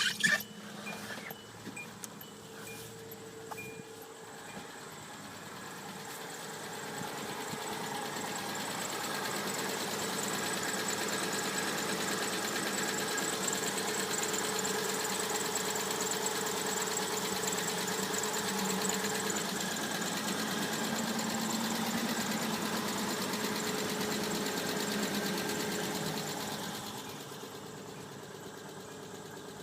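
2005 Hyundai Santa Fe engine catching with a short burst, then running; its speed rises gradually over a few seconds, is held raised for about eighteen seconds, then drops back to idle near the end. It is a used engine with about 151,500 miles, being run as a test.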